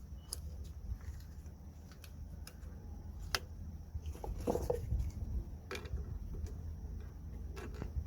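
A few sharp clicks and light handling noises from the parking brake cable clip and rear drum brake shoe being worked by hand, over a steady low hum.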